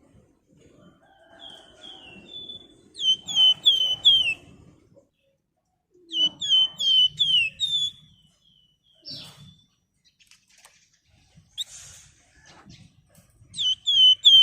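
A songbird sold in Indonesia as the 'flamboyan' singing in quick bursts of sharp, down-slurred whistled notes, each burst a rapid run of four or five notes, three bursts with pauses between.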